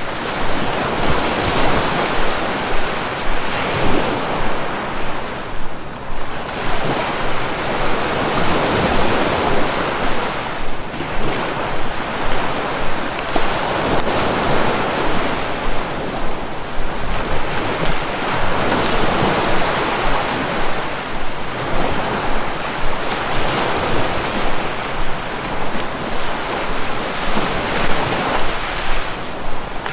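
Sea waves breaking and washing on the shore, a continuous rushing surf that swells and eases every few seconds.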